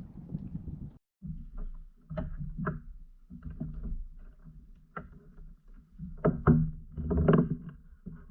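Gear being handled in a kayak while bait is fetched: irregular knocks, clicks and rustling against the kayak's hull, loudest near the end.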